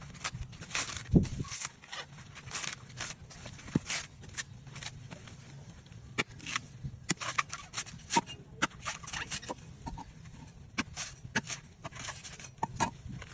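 Coconut being peeled by hand: the fibrous husk cracking, tearing and scraping in irregular short bursts, with one heavy thump about a second in.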